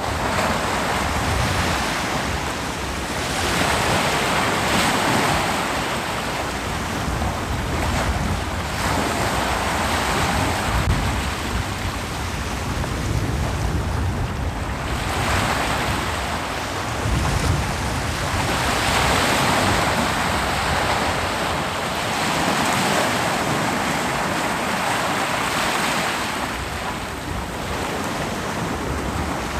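Ocean waves breaking on a beach, the surf rising and falling in long washes of hiss every few seconds over a low rumble, with some wind on the microphone.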